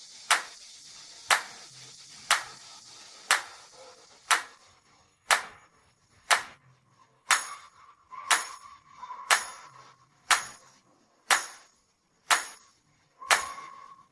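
Sharp clicks evenly spaced about once a second, like a ticking beat, over a faint hiss that fades out about four seconds in.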